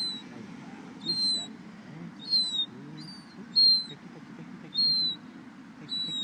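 A seagull giving a run of six short, high, thin calls, each falling slightly in pitch, at a steady pace of about one call every 1.2 seconds.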